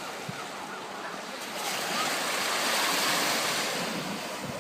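Water splashing and sloshing as a dog paddles and ducks under. The rushing noise swells louder through the middle and then eases off.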